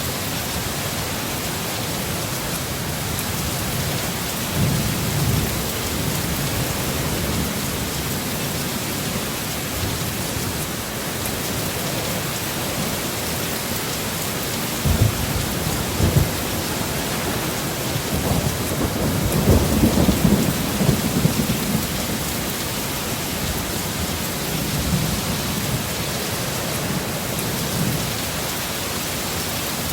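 Steady rain of a thunderstorm, with thunder rumbling low several times. Two short low thumps come about halfway through, followed soon after by the longest and loudest rumble.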